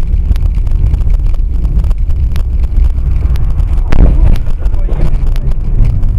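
Loud low rumble of a moving vehicle with wind buffeting the microphone and scattered knocks, with a brief louder stretch about four seconds in.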